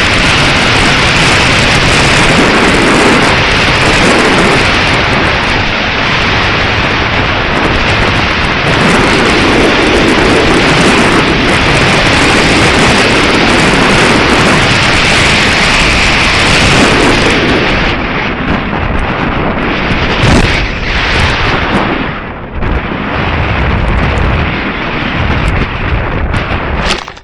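Strong wind buffeting the microphone: a loud, continuous rumble and hiss. It turns gustier and uneven in the last ten seconds, then stops abruptly.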